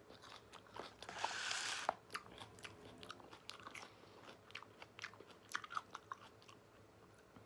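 A person eating close to the microphone: chewing with many small wet mouth clicks, and a louder noisy bite or crunch about a second in that lasts nearly a second.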